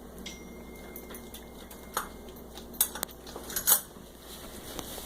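Dishes and cutlery in a dishwasher rack clinking as a dog licks them, with a few sharp clinks between about two and four seconds in.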